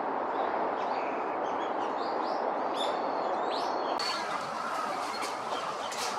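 Small birds chirping and twittering in short high calls, over a steady rushing background noise.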